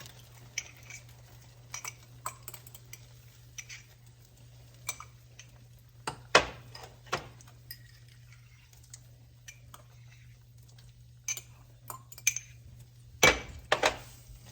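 Spoon or utensil clinking and tapping against dishes as ingredients are spooned into a sauce, in scattered light clicks with louder knocks about six seconds in and near the end. A faint steady hum runs underneath.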